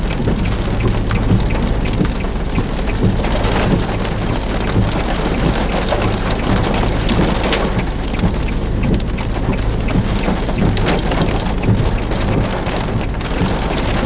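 Heavy thunderstorm rain falling steadily, with many sharp drop impacts, over a steady low hum.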